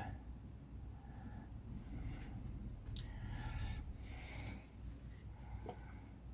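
Faint rustling and rubbing as small clumps of scenery foliage are handled and pressed into place on a model railway layout, in a few short soft bursts with a light click about three seconds in.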